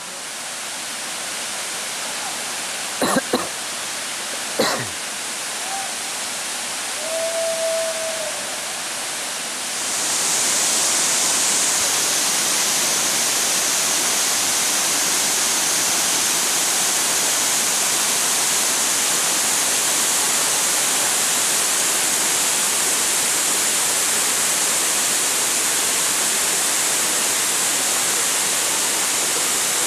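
Steady rushing of a waterfall, which grows louder and hissier about ten seconds in. Two sharp knocks sound a few seconds in.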